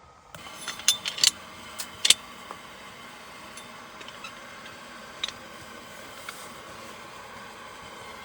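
Wood fire burning in a tent stove, a steady rush with several sharp cracks and pops in the first two seconds and a few fainter ones later.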